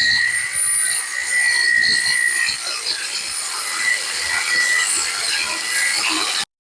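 Angle grinder cutting through a seized steel sway bar link: a steady high whine over a harsh grinding hiss, cutting off suddenly near the end.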